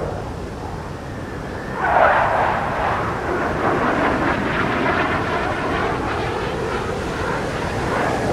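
Fighter jet engine noise, swelling suddenly about two seconds in and staying loud.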